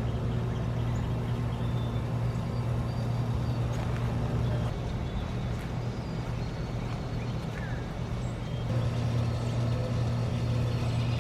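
Lawn mower engine running steadily with a low, even drone that eases slightly and picks up again about nine seconds in, with faint bird chirps above it.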